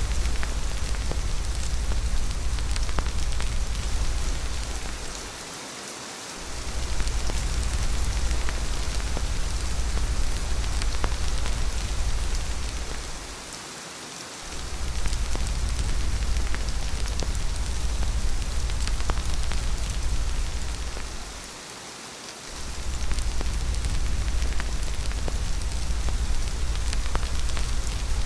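Steady rain hiss with a deep low rumble underneath that cuts out briefly about every eight seconds, three times, then swells back.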